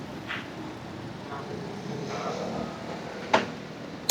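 Steady road and wind noise from an e-bike in motion, with a brief sharp sound a little over three seconds in.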